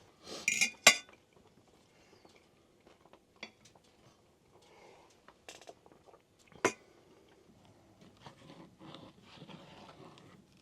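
Dishes and cutlery handled during a meal: scattered light clinks and small knocks, with a louder clatter just after the start and a single sharp click about two-thirds of the way through.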